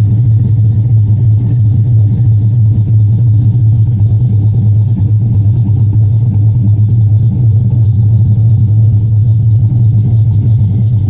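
Chevy Avalanche V8 fitted with an aftermarket camshaft, idling steadily and loudly with a deep, even exhaust note.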